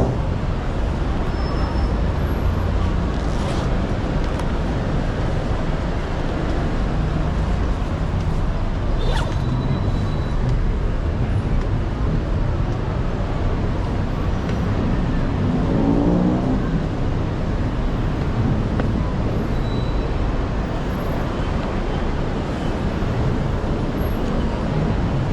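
Steady street traffic noise: a continuous low rumble of passing road vehicles, with a brief rising pitched sound about sixteen seconds in.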